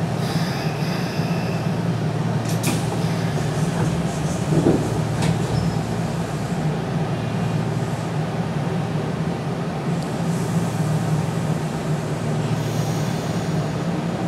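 Steady hum and rumble inside a Nishitetsu 5000 series electric train car, with a few short knocks and clicks.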